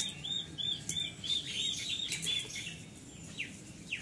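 Birds calling: one repeats a rapid series of short arched chirps, three or four a second, that fades out about a second and a half in, with other chirps overlapping and a couple of quick falling notes near the end.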